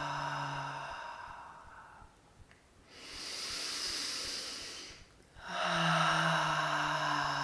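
A woman taking audible breaths: a voiced, sighing out-breath on a steady, slightly falling tone fades out, a hissing in-breath follows about three seconds in, and a second voiced sighing out-breath starts about five and a half seconds in.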